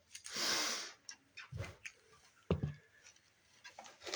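A person sniffing sharply through the nose once, then a couple of short, faint handling sounds.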